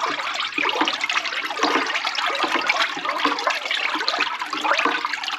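Waste oil pouring and splashing in a steady stream as it is pumped off the top of the barrel by the skimming setup's electric pump.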